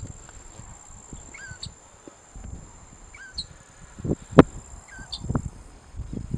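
Grey-backed shrike giving a short, kinked call four times, about every second and a half, over a steady high-pitched insect drone. A few sharp knocks, the loudest sounds, come about two-thirds of the way through.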